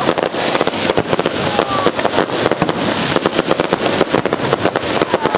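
Fireworks bursting close overhead in a dense, continuous crackle of many rapid sharp cracks.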